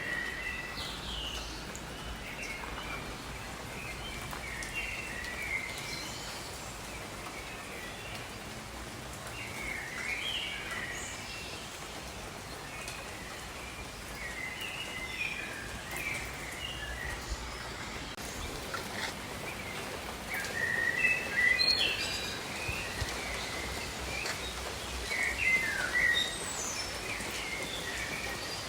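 Steady rain falling, with birds calling over it in short chirps and whistles that come in bursts, busiest a little past two-thirds of the way through.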